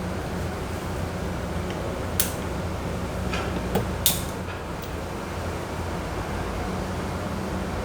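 Tug boat's diesel engine running with a steady low drone, with a few short sharp knocks about two and four seconds in.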